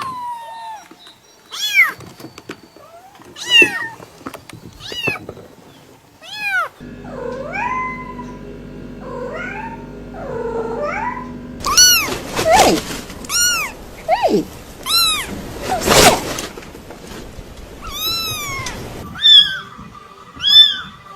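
Cats meowing over and over, short rising-and-falling meows every second or two, in a run of spliced recordings; in one stretch the meows are lower and drawn out over a steady hum. A single sharp knock about three-quarters of the way through.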